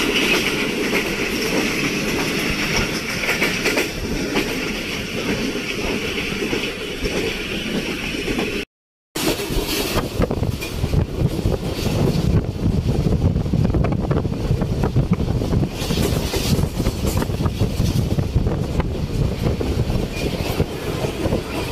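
Karakoram Express passenger train running at speed: a steady rumble and wheel clatter on the rails. After a brief gap about nine seconds in, it is louder and closer, with dense rapid clicking, as heard at an open carriage door.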